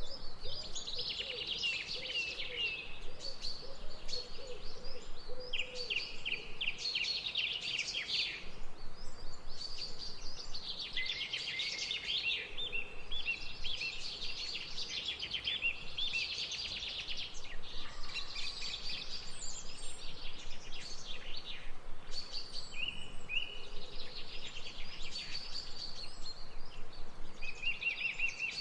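Several songbirds singing at once, a steady chorus of rapid trills and chirps, with a lower repeated call through the first few seconds.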